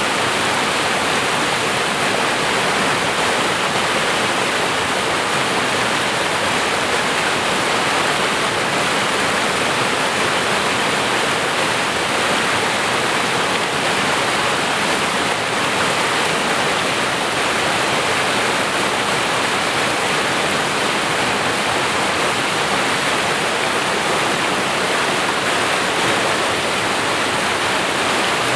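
Waterfall on a creek pouring over rock, a steady rushing of falling water.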